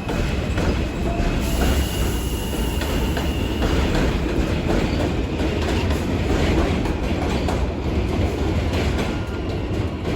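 New York City subway train running through the elevated station, its wheels rumbling and clattering steadily over the rails. A faint high wheel squeal comes in a second or two in.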